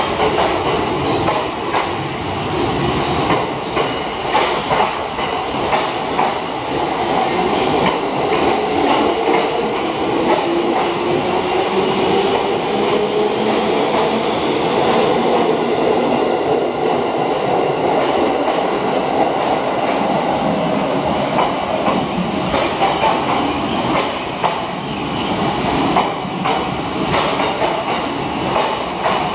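205 series electric multiple unit pulling out and running past, wheels clicking over the rail joints while the motor and gear hum rises in pitch as it picks up speed, about a third of the way in. Heavy rain adds a steady hiss underneath.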